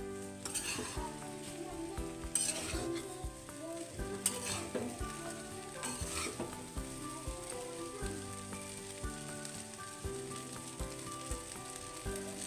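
Leftover rice stir-frying in a metal kadai: a steady sizzle, with a metal spatula scraping and turning the rice against the pan several times.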